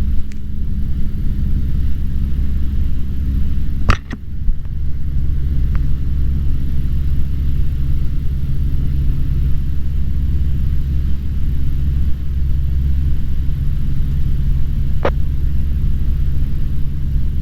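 Cessna 150's four-cylinder Continental O-200 engine and propeller droning steadily at approach power, heard from inside the cockpit. A sharp click about four seconds in and a fainter one near the end.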